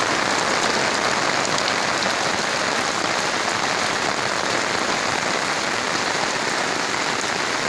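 Steady rain falling on the leaves of coffee bushes and banana plants, an even hiss that does not let up.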